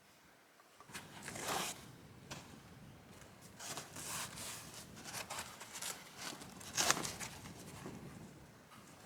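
Irregular rustling and scraping from materials being handled, a string of short scrapes with the loudest about seven seconds in.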